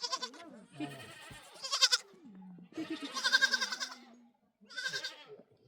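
Goats bleating, about four wavering calls in a row, some overlapping.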